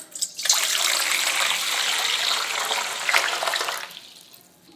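Water running or pouring in a steady gush that starts abruptly about half a second in and fades out near the end.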